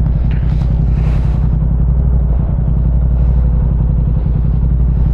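Parallel-twin motorcycle engine running steadily at an even engine speed, heard from the rider's position.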